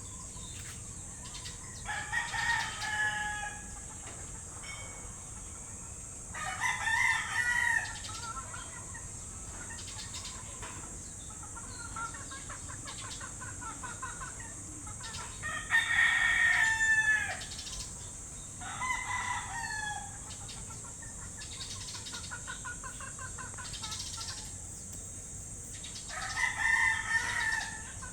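Rooster crowing five times, several seconds apart, each crow about a second and a half long and dropping in pitch at the end. Fainter trilling bird calls sound between the crows, over a steady high-pitched hiss.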